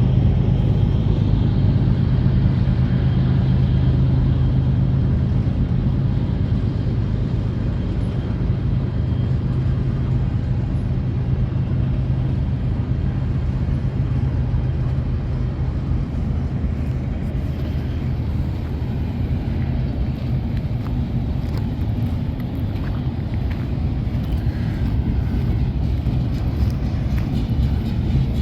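Steady low vehicle rumble with a strong low hum, loudest at first and easing off over the first ten seconds or so.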